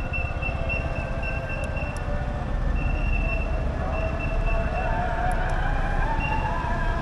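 Sym Jet X 125 scooter's engine and belt drive running steadily under way, with a whining tone over a low rumble of wind and road noise; the pitch rises a little about five seconds in as it speeds up.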